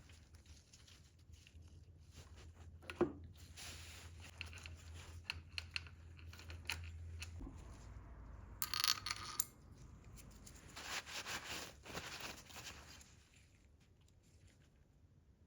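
Hands handling small parts and packaging: light metallic clinks, rustling and tearing, over a low steady hum that cuts off about halfway through.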